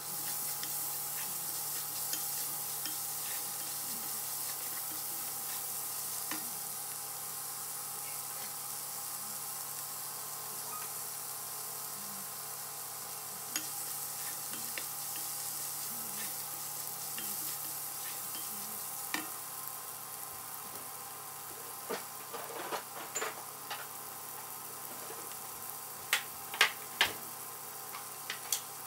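Chopped celery and onion sizzling in oil in a Dutch oven while a wooden spoon stirs them, a steady hiss throughout. Scattered short knocks come in the second half, with a few louder ones near the end.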